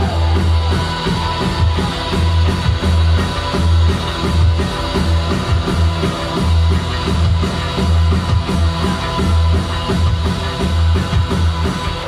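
Post-punk band playing live: guitar, heavy bass and a steady drum beat in an instrumental passage with no singing.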